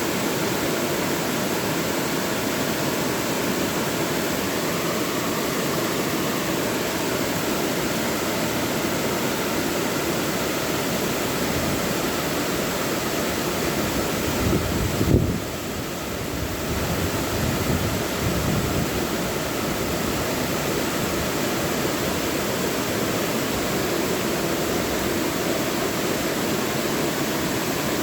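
Mountain valley stream rushing steadily, an even wash of water noise. About halfway through comes a brief low rumble with a short loud peak, and the water sounds muffled for a moment afterwards.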